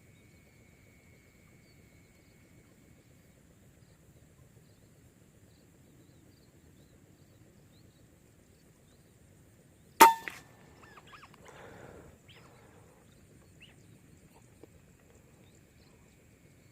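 A single PCP air rifle shot about ten seconds in: a sharp crack with a brief metallic ring. It is followed by a couple of seconds of faint rustling.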